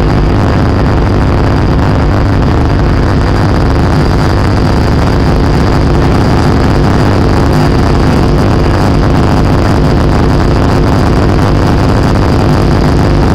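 Dark ambient noise music made with electronic gear: a loud, dense, unchanging low drone of noise, with a thin steady high tone held above it.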